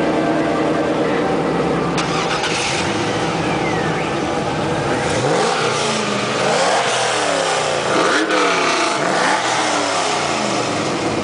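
Two LS1 V8 Pontiac Trans Ams with long-tube headers, one with a 4-inch exhaust and one with true dual bullet mufflers, idling, then revved in several quick overlapping rises and falls from about halfway in.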